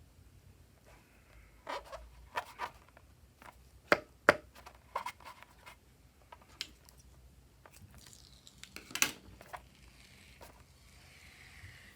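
Slime being worked by hand, giving scattered sticky clicks and small pops. Two sharp snaps come about four seconds in, and a quick cluster of crackles comes near nine seconds.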